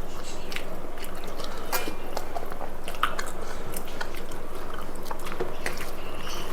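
Close-up chewing while eating rice and chicken curry: scattered wet mouth clicks and smacks over a steady background hiss.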